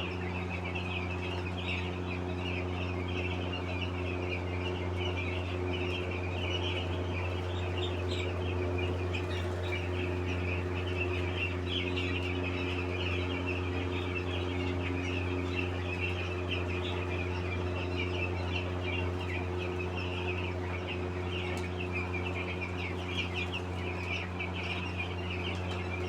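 A flock of many chickens calling at once, a dense, continuous high-pitched chatter that never lets up, over a steady low hum.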